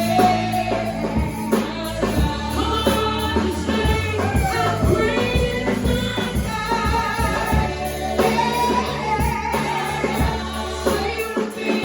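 Gospel worship music: singers with a band, steady bass and beat, and tambourine.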